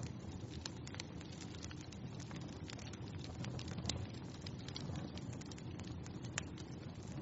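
Wood fire in a fireplace crackling, with a steady low hiss and many small irregular pops, a couple of sharper pops about four and six seconds in.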